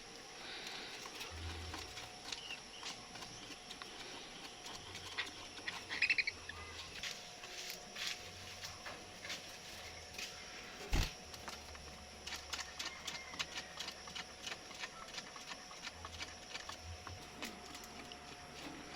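Pet budgies (budgerigars) with a brief high chirp about six seconds in, amid many small scattered clicks and taps. One louder thump about eleven seconds in.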